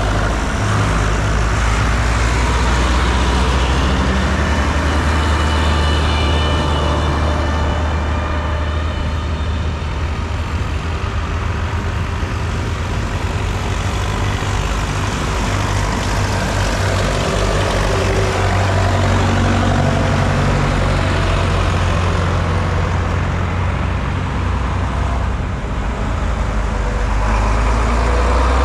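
Vintage diesel tractor engines running steadily on the road, a loud, low, even engine drone.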